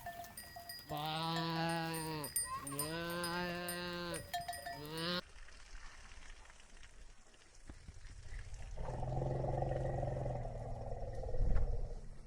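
A bleating farm animal calls twice, two long bleats about a second apart. After a quiet gap, a lower, longer call follows, ending with a short knock.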